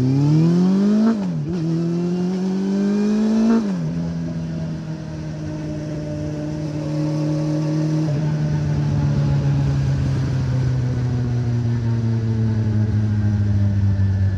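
Honda CB400 Revo inline-four with a Moriwaki exhaust pulling away: revs climb and drop sharply at two upshifts, about a second and three and a half seconds in. It then cruises at a fairly steady pitch that eases lower after about eight seconds.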